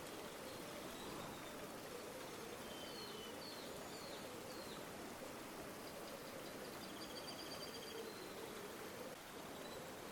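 River water flowing steadily, with faint bird calls over it: a few short chirps about three to four seconds in, and a high rapid trill from about six to eight seconds in.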